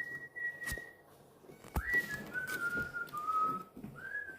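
A person whistling a short tune: a held note, then a run of notes that steps down and rises again. Sharp crunches of crispy seaweed snack sticks being bitten come twice in between.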